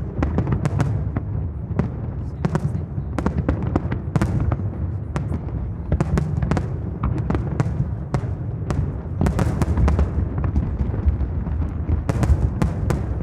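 Fireworks display: a continuous deep rumble of shell bursts with many sharp bangs and crackles one after another, thickest near the end.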